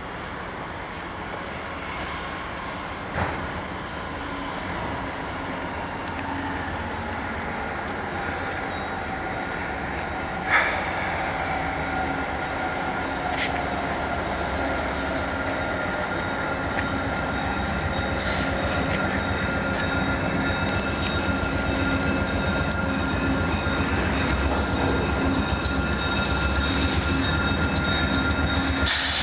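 VIA Rail train led by P42DC diesel locomotive 912 arriving, growing steadily louder as it approaches. There is a sharp knock about three seconds in and another about ten seconds in. A steady high squeal sets in with the second knock and holds.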